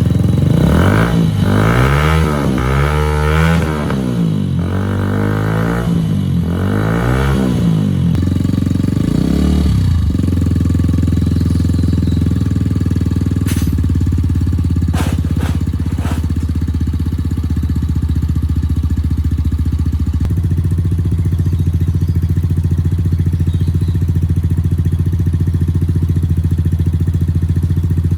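Off-road motorcycle engine just started, revved up and down about five times over the first ten seconds, then settling into a steady idle. A few sharp clicks come in the middle of the idle.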